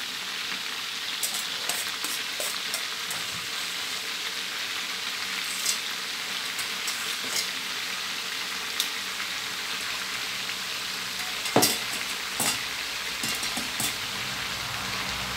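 Fermented fish (pla som nuanchan) and chopped garlic deep-frying in a wok of hot oil, with steady sizzling as the garlic is added and stirred in. Scattered sharp clicks and pops sound over it; the loudest two come about three-quarters of the way through.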